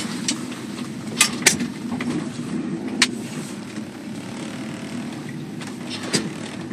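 1968 Chevrolet Chevelle's engine running steadily as the car drives, heard from inside the cabin, with a few sharp clicks over it.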